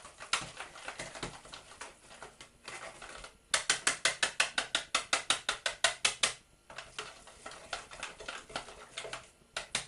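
Wire whisk beating flour into melted butter in a jug, the wires clicking against the jug's sides. Softer, uneven strokes give way to fast, even beating, about eight clicks a second, from about three and a half seconds in; it eases off for a few seconds and picks up fast again near the end.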